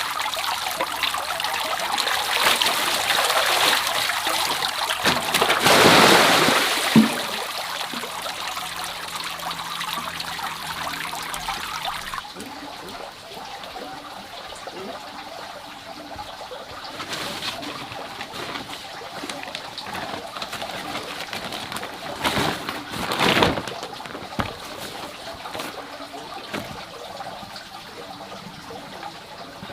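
Water trickling and splashing, loudest in the first twelve seconds and then dropping off sharply, with a bird calling over it.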